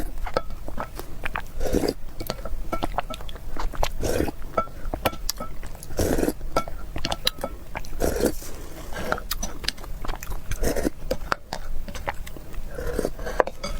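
Close-miked chewing and biting of a hard, crunchy youtiao (fried dough stick): dense crisp crackles throughout, with louder chewing crunches every second or two.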